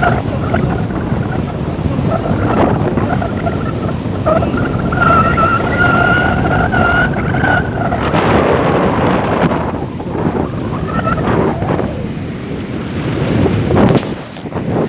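Strong wind buffeting the microphone on a sailboat under way, with water noise beneath. A steady pitched tone sounds for a few seconds in the middle.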